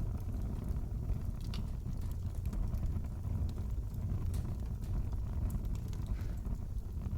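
Wood fire crackling in a fireplace: a steady low rumble of flames with scattered small sharp pops and snaps at irregular intervals.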